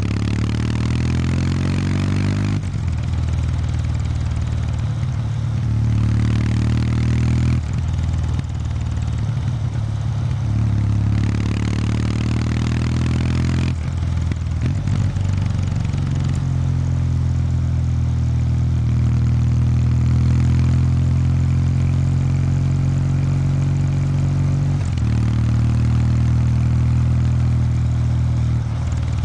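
Exhaust of a Kawasaki W800 Street's air-cooled parallel twin on the stock exhaust, under way on a motorcycle. Three times in the first half the revs climb and then drop back. After that the engine holds a steady, even pace, with one brief dip in revs near the end.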